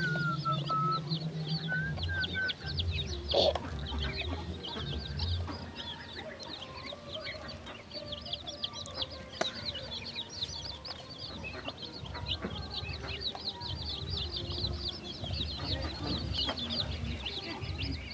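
Chickens and young birds feeding: a steady chorus of rapid, high peeping with clucking beneath it. A single sharp knock comes about three and a half seconds in.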